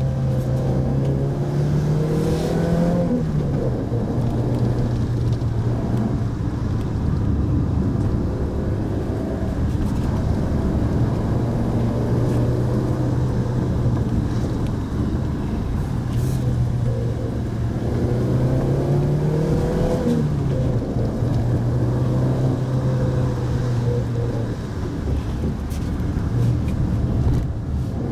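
Mitsubishi Pajero Mini's engine running steadily under way, with road noise. The engine note rises and then drops back twice, about three seconds in and about twenty seconds in.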